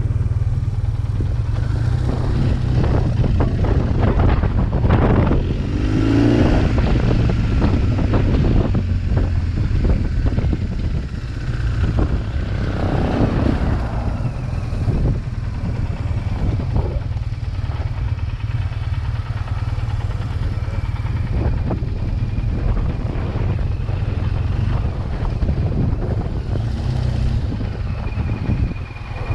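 BMW R1200GS boxer-twin motorcycle riding at low speed with the engine running, its pitch rising and falling a couple of times, over a heavy steady low rumble.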